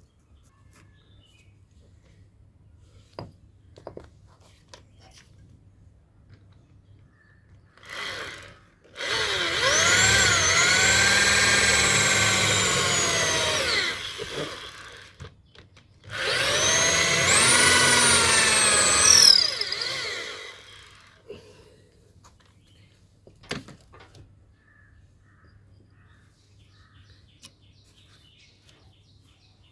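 Electric power tool run in two bursts of about five seconds each, its whine dipping and recovering in pitch as it bears on the work, with a few light knocks in the quiet between.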